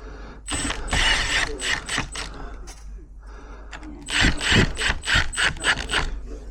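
Hand ratchet screwdriver driving in screws: two runs of quick ratcheting clicks, the second about four seconds in.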